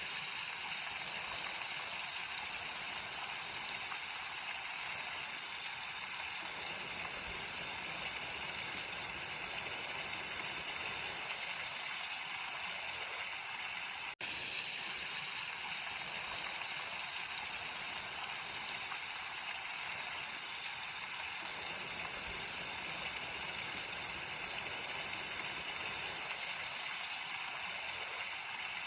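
Mountain stream flowing: a steady rush of water, broken by a momentary dropout about halfway through.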